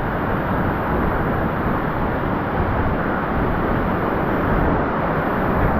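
Waterfall pouring heavily into its plunge pool at close range: a steady, loud rush of falling water.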